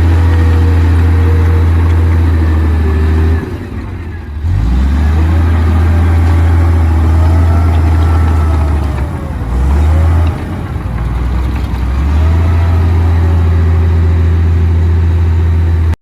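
Komatsu D58P bulldozer's diesel engine running loudly. Its note drops and shifts about a third of the way in and again past the middle, then picks back up.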